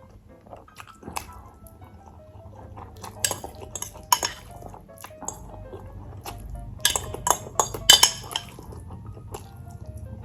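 Eating utensils clinking and scraping against dishware in quick, irregular strikes, with the loudest cluster about seven to eight seconds in.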